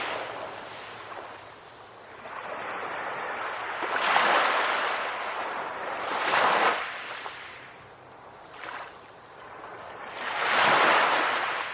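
Ocean surf breaking on a shore, swelling and fading in slow washes every few seconds.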